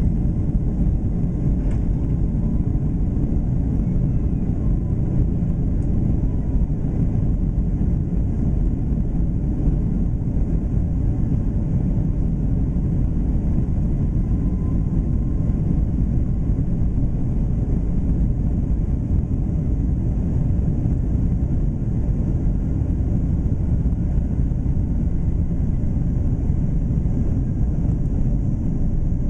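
Boeing 757-300 airliner during takeoff: a loud, steady low rumble of the engines and the airframe.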